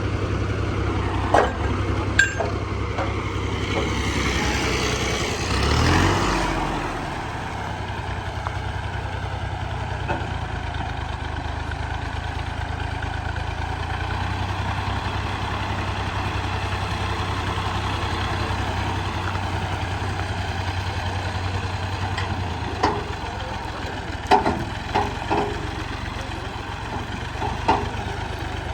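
Fiat 480 tractor's three-cylinder diesel engine running steadily under load, driving a wheat thresher by flat belt. A louder swell comes about five seconds in, and a few sharp knocks sound near the start and again near the end.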